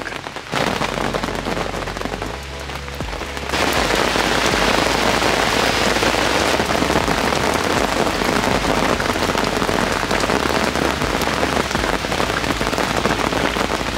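Heavy rain pouring down in a storm, a dense steady hiss that gets louder about three and a half seconds in.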